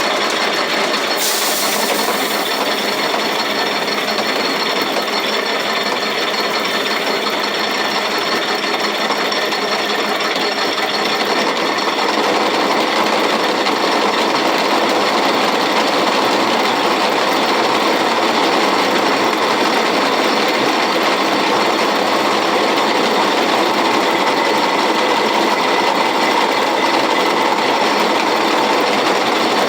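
Antique roller mill running, crushing grain between its rollers: a steady, loud mechanical clatter that grows a little louder about a third of the way in.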